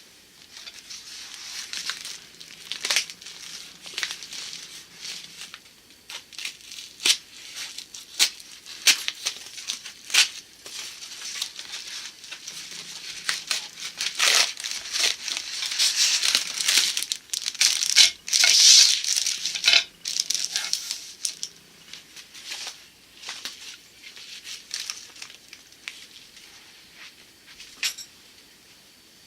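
Packaging being opened by hand: irregular crinkling, rustling and tearing with sharp clicks, busiest and loudest a little past the middle.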